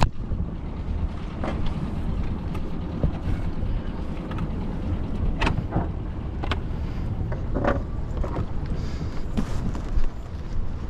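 Wind rumbling on the microphone aboard a boat under way, with scattered short knocks or splashes over it.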